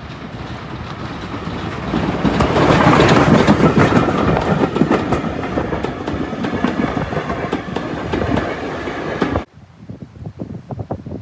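Heritage steam train passing close by, its wheels clattering rhythmically over the rail joints. The sound swells to its loudest two to four seconds in and cuts off suddenly near the end, where a quieter gusty noise takes over.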